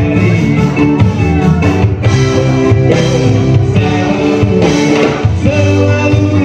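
A band playing a rock song with guitar, bass and drums, with a voice singing over it.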